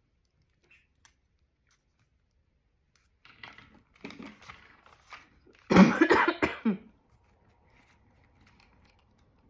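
A person coughing several times in a row, loudest a little past the middle, after a few softer coughs or throat sounds.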